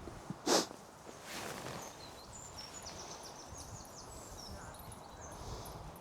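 Small birds chirping quickly and high in the background of a quiet outdoor scene, with one short, loud burst of noise about half a second in and a softer rush of noise a second later.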